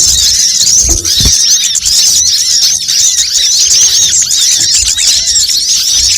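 Dense, unbroken high-pitched twittering of sunbirds: many rapid chirps overlapping, as in a busy flock. It is a loud recorded bird-trapping lure call.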